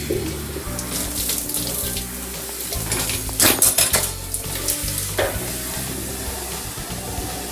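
Water from a handheld shower head spraying and splashing as a cat is washed at a washbasin, with louder splashes about three and a half seconds in. Background music plays underneath.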